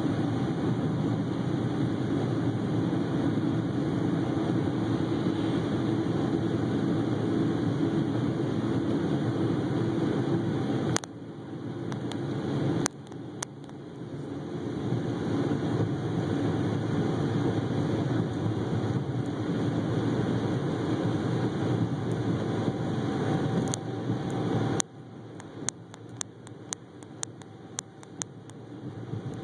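Steady engine and road rumble of a moving vehicle. It drops suddenly about eleven seconds in and again near the end. In the last few seconds there is a run of sharp knocks, typical of a handheld camera jolting over a bumpy road.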